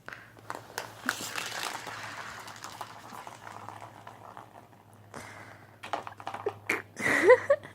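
Rustling and crinkling with scattered taps and clicks as a cat plays with a toy, busiest in the first few seconds and thinning to separate clicks. A short voiced sound near the end.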